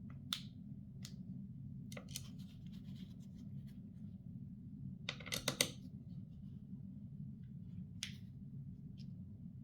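Hands handling computer parts and their packaging: scattered small clicks and rustles, with a cluster of sharper clicks about five seconds in, over a steady low hum.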